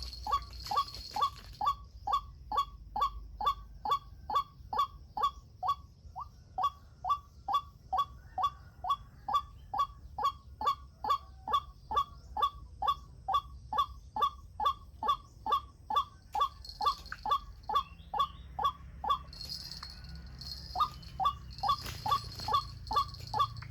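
White-breasted waterhen calling: a long run of short, monotonous pitched notes repeated about twice a second, breaking off for a couple of seconds near the end and then starting again.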